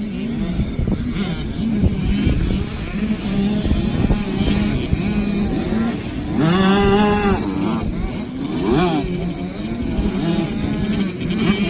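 65cc two-stroke motocross bike engines running and revving up and down. About six and a half seconds in, one bike revs hard, its pitch climbing then falling, the loudest moment; a shorter rising rev follows about two seconds later.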